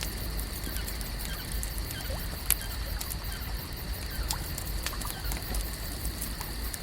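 Lake ambience soundscape: scattered sharp crackles and clicks over a steady high-pitched drone and a low rumble, with one louder crack about two and a half seconds in.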